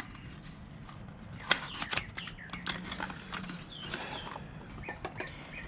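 A few faint clicks and knocks of handling, with faint bird chirps in the background.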